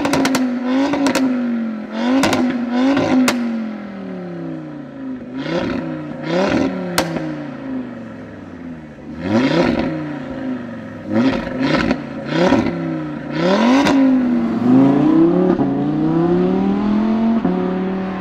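Audi RS3 Sportback's turbocharged 2.5-litre five-cylinder revved repeatedly while standing still: a run of quick blips, then spaced revs and one longer rev near the end, with pops and crackles from the exhaust as the revs drop.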